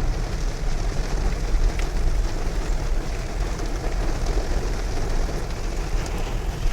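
Heavy rain: a steady, even hiss over a strong low rumble.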